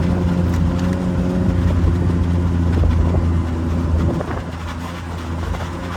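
Vehicle engine running steadily at low revs; the engine note drops and quietens about four seconds in.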